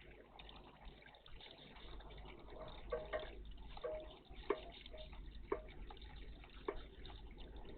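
Water splashing and trickling in a garden bird bath, with a few short sharp knocks and brief low notes in the middle.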